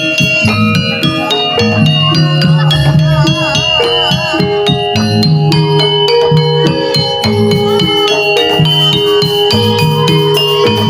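Javanese gamelan music for a jaranan horse dance: metallophones strike a busy, ringing melody over low drum strokes, with a wavering melody line rising above them for a couple of seconds.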